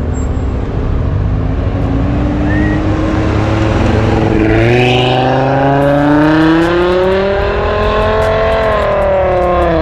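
A vehicle engine accelerating hard, its pitch climbing steadily over several seconds, then dipping briefly near the end as it shifts up and climbs again.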